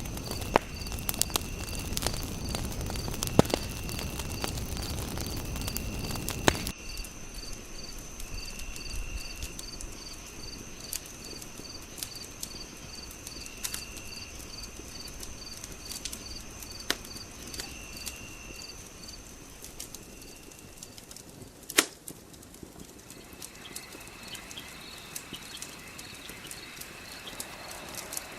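Wood fire crackling with scattered sharp pops, one loud pop about 22 seconds in, over night insects. The insects give a steady high chirp repeating a few times a second, which stops about two-thirds of the way through, and intermittent trills.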